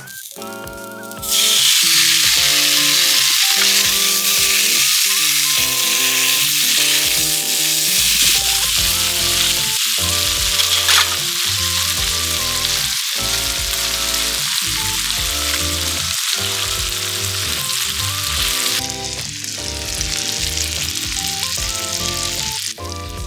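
Food sizzling and frying loudly, starting about a second in and easing off near the end, over background music with a steady beat.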